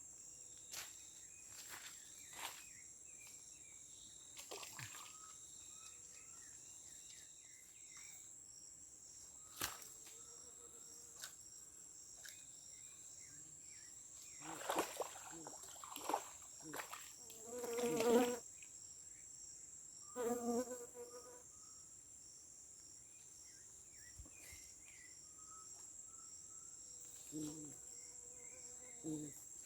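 Steady high-pitched insect chorus of crickets or cicadas from the riverside vegetation, with a few short louder sounds breaking in, two of them pitched calls about 18 and 20 seconds in.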